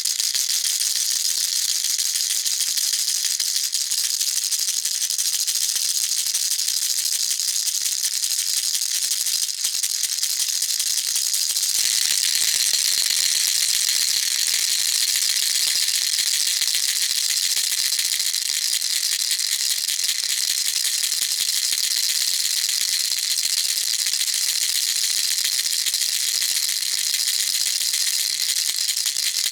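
Baby rattle shaken continuously, a dense, unbroken high rattling at a steady level. About twelve seconds in, the tone shifts slightly brighter and stays that way.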